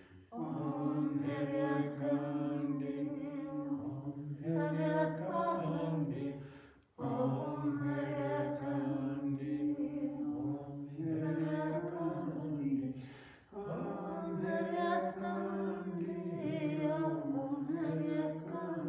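Voices singing a Hindu devotional chant in three long, drawn-out phrases of about six seconds each, with short breaks for breath between them.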